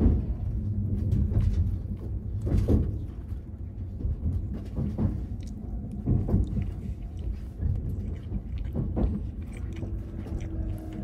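Steady low rumble of a limited express train heard from inside the passenger car while it runs, with a few brief knocks. Near the end a steady hum at two pitches comes in.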